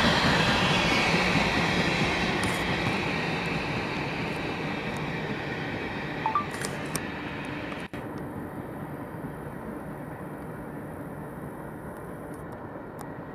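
Freight train of tank cars rolling past and fading steadily away down the track, with a brief high squeak about six seconds in.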